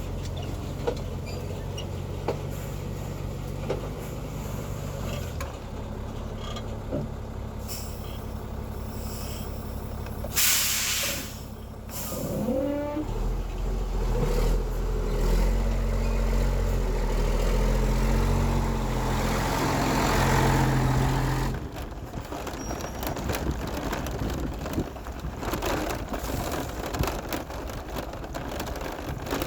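Heavy logging truck's diesel engine running, with a loud hiss of air about ten seconds in and a shorter one soon after. The engine then runs louder and deeper for several seconds before the sound changes abruptly.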